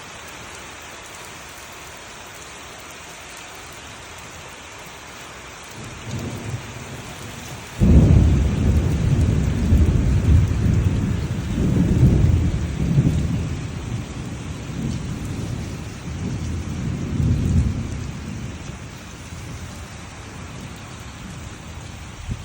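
Steady rain falling, with thunder: a faint low rumble about six seconds in, then a sudden loud crack about eight seconds in that rolls on in swells and slowly dies away over about ten seconds.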